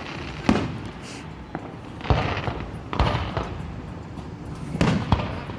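Aerial fireworks shells bursting in a show: about six sharp bangs at irregular intervals, each trailing off in a low rumble.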